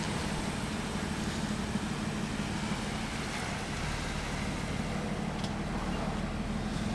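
A car running steadily as it drives slowly up: even engine and road sound with a constant low hum.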